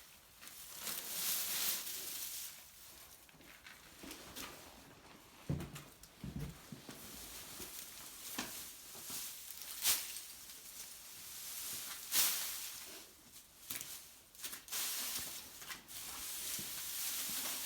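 Loose straw being tossed and spread by hand: irregular rustling swishes, with a couple of soft thuds and a few sharp crackles.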